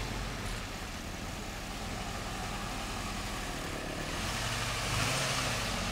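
Engines of old military vehicles running as they drive off; the engine sound grows louder about four seconds in as one comes closer.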